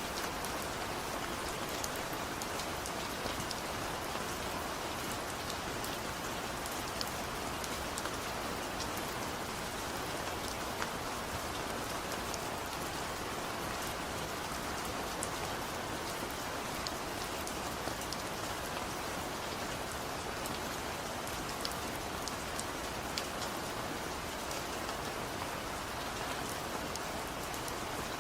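Steady light rain falling, an even hiss with many small drop ticks pattering on a surface.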